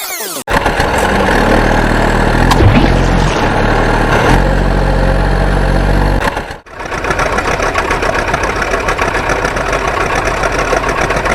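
Truck engine running steadily, in two stretches: the first ends in a brief break about six and a half seconds in, and the second, busier engine sound runs on after it.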